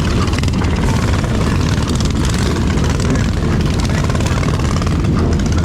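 Steady wind buffeting on the microphone of a moving action camera, mixed with small mini-bike engines running during a ride.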